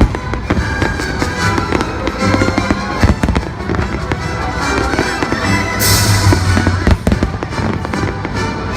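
Aerial fireworks bursting with sharp bangs, the loudest about three and seven seconds in, over loud music played through a sound system, with a brief hiss about six seconds in.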